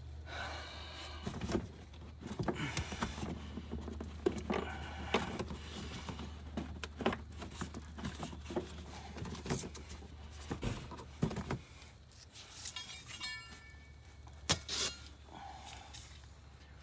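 Scattered clicks, knocks and small rattles of hand tools and plastic clips being worked loose on a car, with a quick run of ticks about three-quarters of the way through, over a steady low hum.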